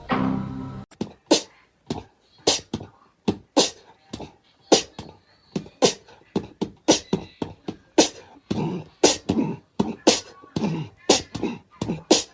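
A rapid, irregular series of sharp clicks and pops, two or three a second.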